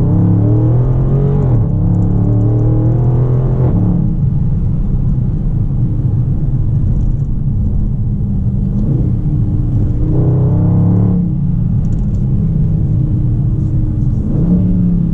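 2019 Dodge Charger Scat Pack's 6.4-litre HEMI V8 engine and exhaust running under way, a loud low rumble whose pitch climbs under throttle and drops back several times.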